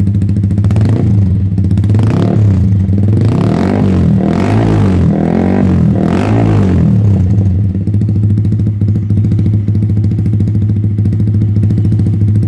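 Yamaha R15 V3's 155 cc single-cylinder engine through a full Daytona aftermarket exhaust, idling and then revved in several quick blips in the first half, each rising and falling back, before settling to a steady idle. The exhaust note is sporty, aggressive and louder than the stock exhaust.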